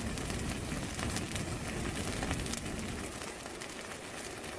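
A fire crackling, with small scattered pops over a steady hiss.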